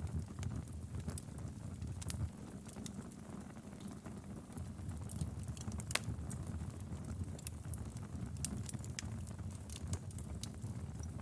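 Wood fire crackling and popping in a fireplace: a steady low rumble of burning with irregular sharp snaps, one louder pop about six seconds in.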